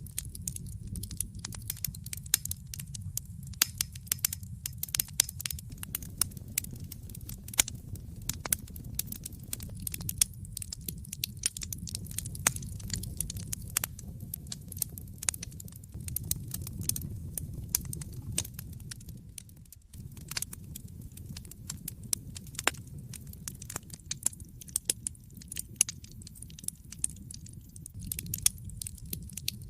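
Wood fire in a fireplace crackling, with dense irregular pops and snaps over a steady low rumble of the flames, dipping briefly about twenty seconds in.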